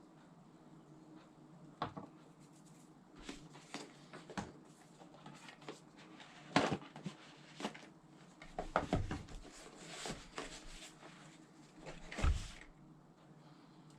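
Irregular small clicks, taps and brief rustles of hard objects being handled at close range, with two louder knocks, one midway and one near the end.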